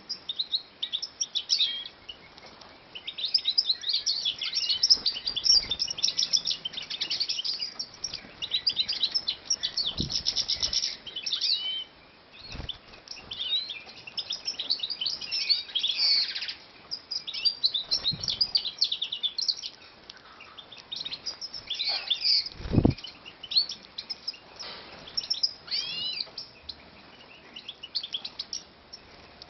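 European goldfinches singing and calling in a cage or aviary: quick, liquid twittering phrases with short pauses between them. There are a few low thumps, the loudest about 23 seconds in.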